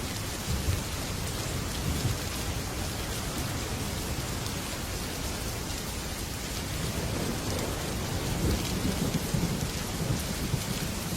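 Heavy rain beating steadily on a metal roof, with low rolling thunder that swells briefly about a second and two seconds in and rumbles longer from about seven to ten seconds in.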